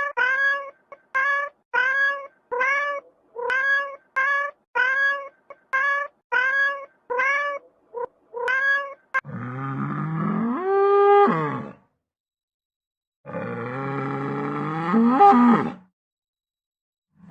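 Animal calls: a quick series of short pitched calls, about two a second, then two long drawn-out calls that rise in pitch.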